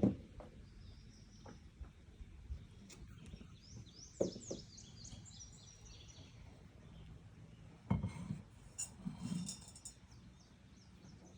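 A songbird sings a run of quick, high, falling notes a few seconds in, among scattered knocks and thumps.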